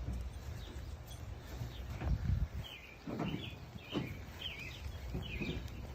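Birds chirping in short, repeated calls over a low background rumble.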